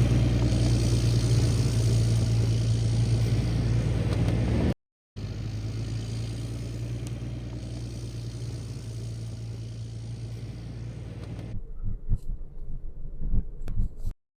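A vehicle driving, with steady engine hum and road noise. There is a short break about five seconds in, and the sound turns uneven and bumpy in the last few seconds before cutting off.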